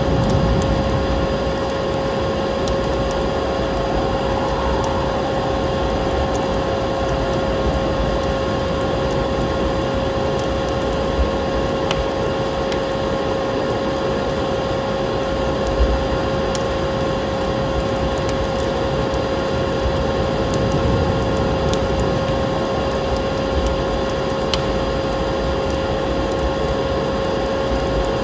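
Vacuum cleaner motor running steadily with a constant hum, layered with the crackle and pops of a wood fire.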